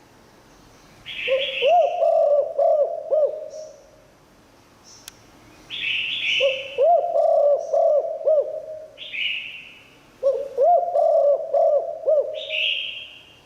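Spotted dove cooing: three phrases about four and a half seconds apart, each a quick run of rising and falling coo notes.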